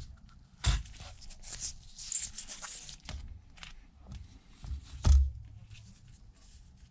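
Light handling sounds of adhesive tape and small tools at a repair bench: soft rustling and clicks, with two sharper knocks, one under a second in and one about five seconds in.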